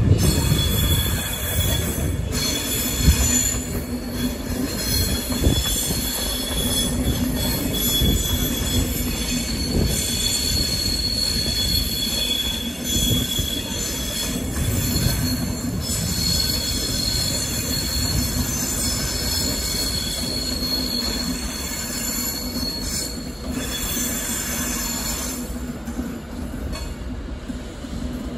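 A train moving through the station with its wheels squealing on the rails in several high, steady tones over a low rumble. The squeal weakens near the end.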